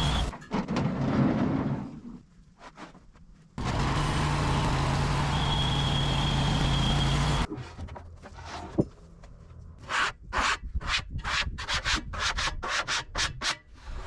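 Sawmill engine running steadily with a thin high whine, cut off abruptly twice. Then a quieter stretch of about a dozen quick rubbing strokes on wood.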